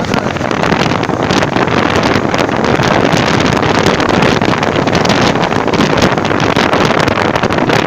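Wind buffeting the microphone on a moving motorcycle, over the bike's engine and road noise.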